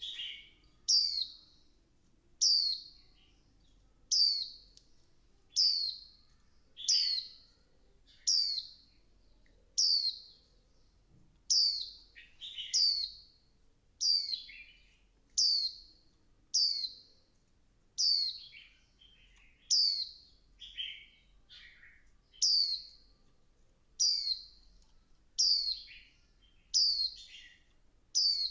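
Female white-eye calling: a short, high, downward-sweeping chirp repeated steadily about every second and a half, some with a lower trailing note.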